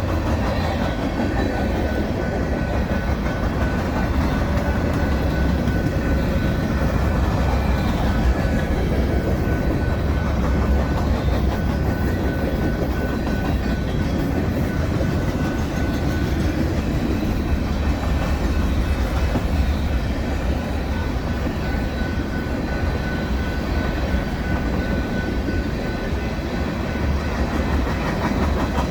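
Freight cars of a mixed manifest train rolling past, a steady clatter of steel wheels on rail with a faint thin high ringing from the wheels.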